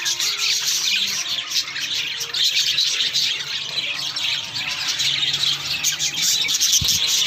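A group of pet parakeets chattering and chirping together in a dense, continuous warble.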